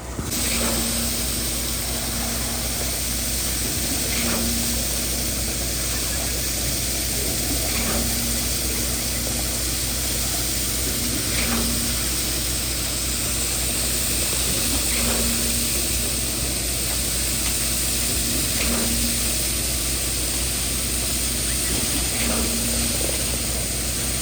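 Concrete pump running steadily with a hissing engine drone, and a short clunk about every three and a half seconds as it switches pumping strokes.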